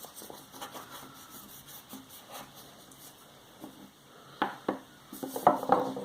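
Faint scattered clicks and rubbing of paintbrushes and paint pots being handled on a tabletop, with two sharper taps about four and a half seconds in.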